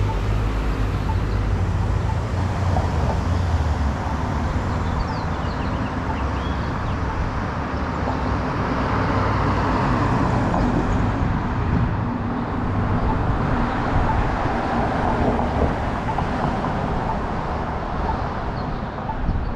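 Road traffic: cars driving past through an intersection, a steady rumble that swells as vehicles go by, twice around the middle of the stretch.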